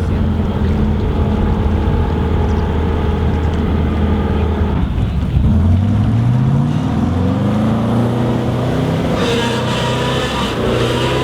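Ferrari Testarossa's flat-twelve engine idling, then revved about five seconds in, its pitch climbing over a couple of seconds and holding at a higher, steady speed.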